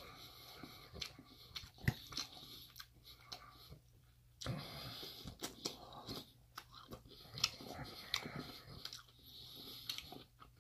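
Close-up eating sounds of a person chewing mouthfuls of tofu and cauliflower curry, wet and crunchy, with a few sharp clicks of a metal fork against the steel bowl, the loudest about two seconds in.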